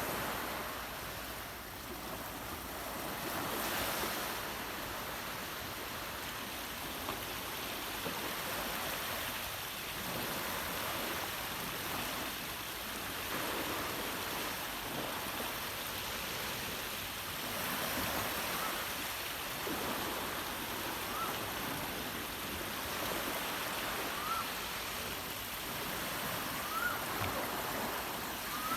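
Surf washing on a shore, a steady rushing noise, with a bird giving a few short rising chirps in the second half.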